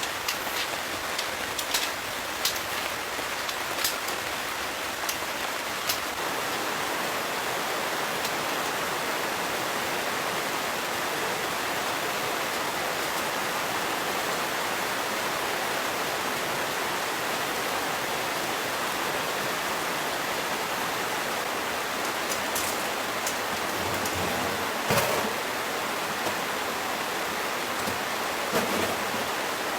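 Steady heavy rain with wind, an even hiss of falling water. Scattered sharp ticks sound over it, several in the first few seconds and a few more near the end, the loudest about 25 seconds in.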